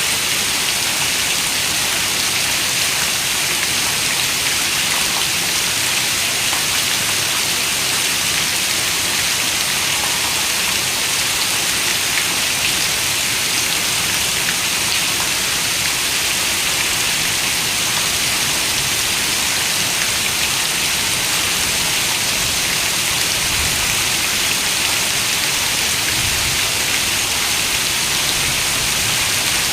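Steady rain falling: an even, unbroken hiss of many raindrops.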